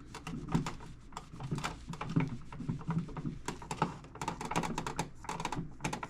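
A rapid, irregular run of light clicks and taps, several a second, like typing on a keyboard.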